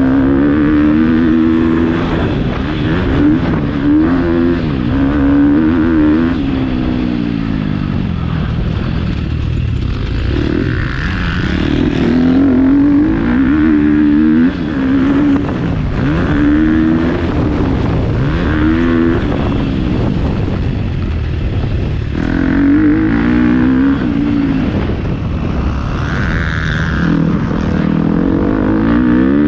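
Motocross bike engine revving up and falling back again and again as the rider accelerates, shifts and rolls off around the track.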